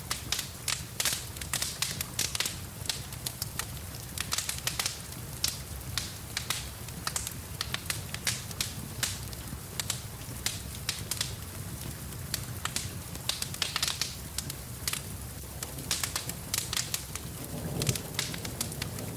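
Wood fire in a fireplace crackling with frequent sharp pops at irregular intervals, over a steady low rumble and an even hiss of rain.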